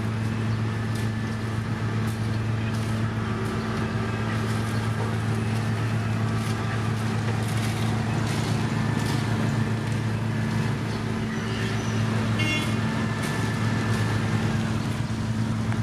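Heavy construction machine's diesel engine running at a steady speed, a constant low hum, with scattered clicks and knocks over it and a brief high chirp about three-quarters of the way through.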